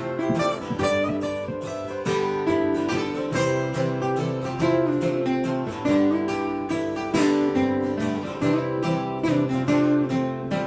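Acoustic guitar strummed in an instrumental break between the song's sung verses, a steady rhythm of chords with no voice.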